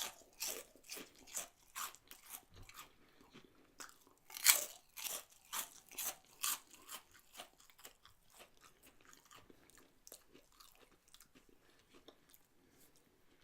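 Close-up crunching and chewing of crisp fried fryum snacks: sharp crunches through the first half, loudest about four and a half seconds in, thinning to fainter chewing in the second half.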